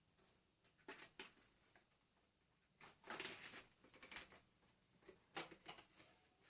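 Faint plastic clicks and a short rattle from a Vax Air Lift Steerable upright vacuum cleaner being handled with its motor off, as its cylinder is unclipped and lifted out of the frame. There are two clicks about a second in, a rattle about three seconds in, then a few more clicks.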